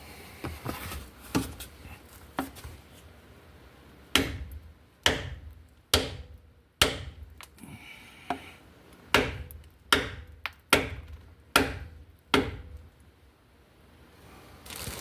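Hammer blows on a wooden board used as a buffer to drive a part into place: a few light strikes, then about nine heavy ones in two runs with a short pause between.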